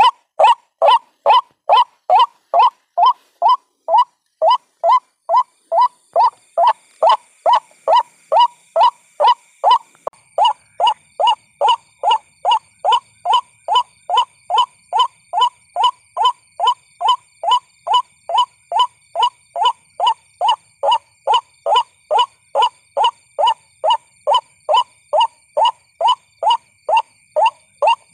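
White-breasted waterhen call, played as a lure recording: a short, monotonous note repeated evenly about twice a second.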